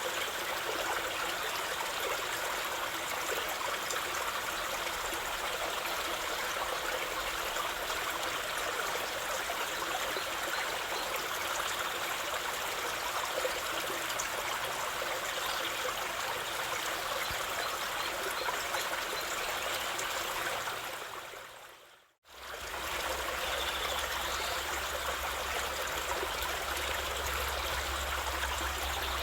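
A stream running steadily, water trickling over stones. About three quarters of the way through it fades out to silence and fades straight back in.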